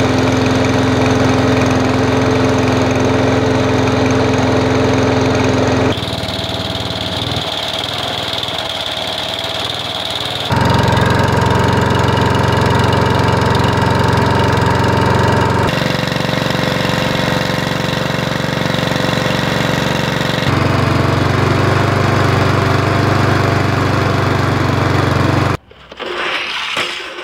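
Five petrol lawn mower engines running steadily one after another, each for about five seconds with an abrupt switch to the next, each with its own engine note. Near the end the engine sound stops and gives way to quieter, irregular clattering.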